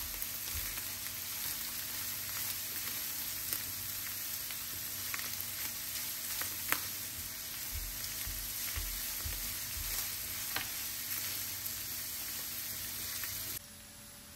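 Minced meat, onion and grated carrot sizzling as they fry in a nonstick pan, stirred with a silicone spatula that gives a few sharp clicks against the pan. The sizzle drops suddenly near the end.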